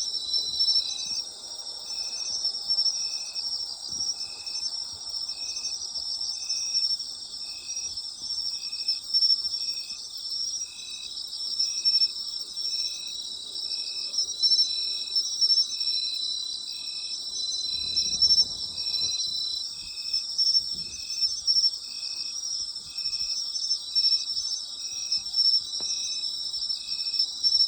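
Night chorus of autumn insects: dense, continuous high trilling, with one insect calling a short note in a steady rhythm, about once a second.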